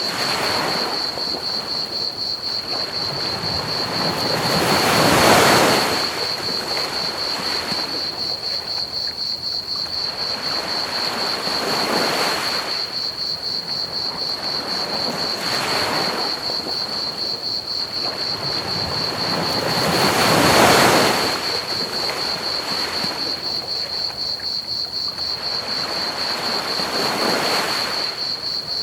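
Ocean waves washing onto a beach, swelling and falling back every few seconds, with the two biggest breaking about five and about twenty seconds in. Underneath runs a steady, rapid, high-pitched chirring of crickets and an even hiss of pink noise.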